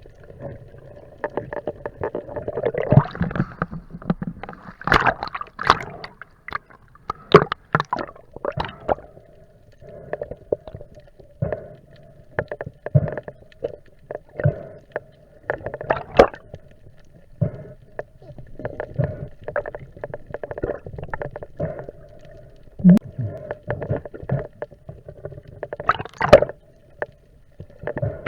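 Sound picked up underwater on a spearfishing dive: irregular clicks, knocks and bubbling over a steady hum.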